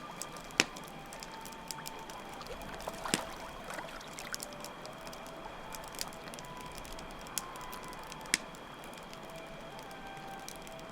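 Campfire crackling with a few sharp pops, over trickling water and a steady high drone of crickets.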